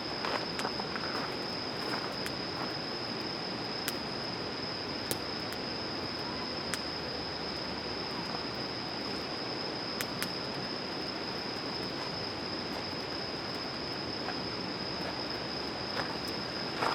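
Wood campfire crackling, with sharp pops every second or two, over the steady high trill of crickets.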